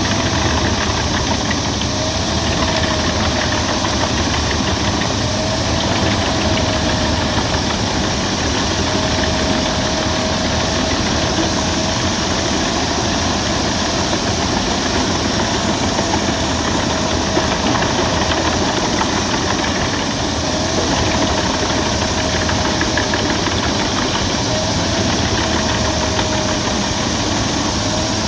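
Albach Diamant 2000 wood chipper running steadily and loudly, with a faint whine that wavers slightly in pitch.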